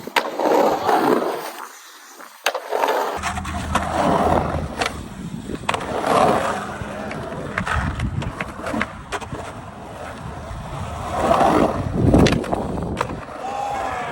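Skateboard riding: wheels rolling with rising and falling rumble, and several sharp clacks as the board pops and lands.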